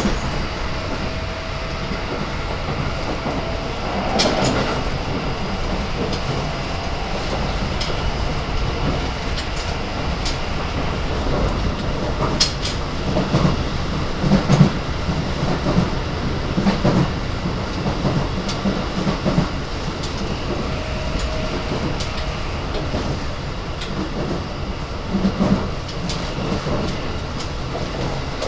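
Keikyu 1000 series commuter train running, heard from inside a passenger car: a steady rumble of wheels on rail with irregular clacks and knocks as the wheels pass over rail joints, a cluster of them about halfway through.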